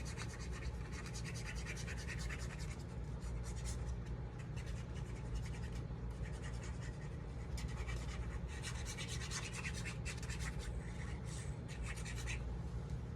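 Scratchy rubbing and rustling of paper and cardstock being handled as pieces are glued together, coming in clusters of quick strokes, over a low steady hum.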